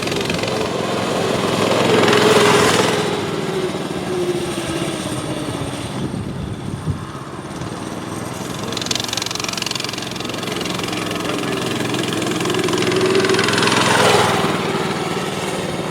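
Small mini-motorcycle engine running. It grows louder and then falls away in pitch and level twice, about two and a half seconds in and again near the end, like the bike riding past.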